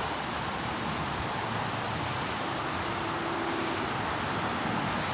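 Steady outdoor background noise, an even hiss with a low rumble, with a faint brief hum about two and a half seconds in.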